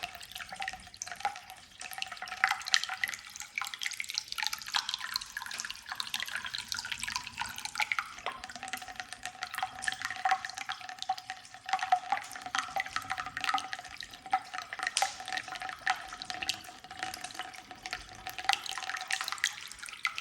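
50/50 antifreeze being poured from a jug into the truck's cooling system, an irregular gurgling and splashing of liquid. A steady tone joins about eight seconds in as the system nears full.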